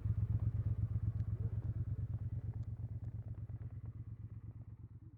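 Triumph Speed Twin 1200 parallel-twin engine idling with a steady, even exhaust pulse, fading away toward the end.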